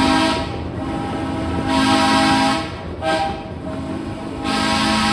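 Live-steam locomotive's steam whistle sounding a long-long-short-long pattern: the end of one long blast, a second long blast, a brief toot about three seconds in, then a final long blast starting near the end. The pattern is the standard grade-crossing signal.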